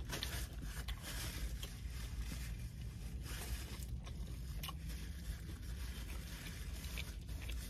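Quiet closed-mouth chewing, heard as faint scattered clicks and soft scrapes over a steady low hum inside a car's cabin.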